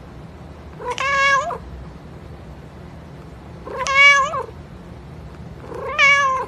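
Domestic cat meowing three times, each meow under a second and fairly level in pitch, about two and a half seconds apart.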